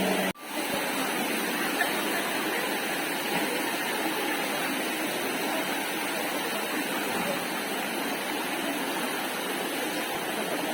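Steady rushing of water from Labasin Falls, a continuous hiss-like roar of falling water, which starts just after a brief dropout at the very beginning.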